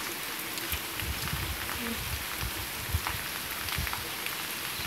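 Rain falling steadily on a wet paved street, an even hiss with scattered sharper drip ticks.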